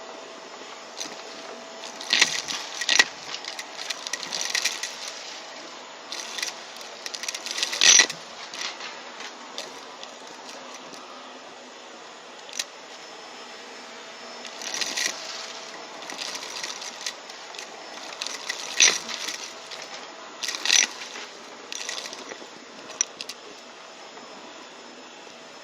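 Vacuum cleaner running steadily with a thin motor whine, with irregular crackling bursts several times as crunchy debris is sucked up.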